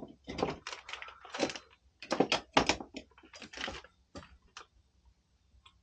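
Irregular quick clicks and clatter of hand tools and small metal parts being handled, which stop about four and a half seconds in.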